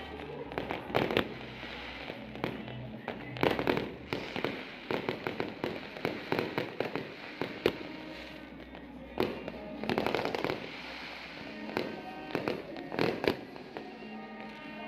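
New Year fireworks going off: many sharp bangs and crackling bursts at irregular intervals, with music playing alongside.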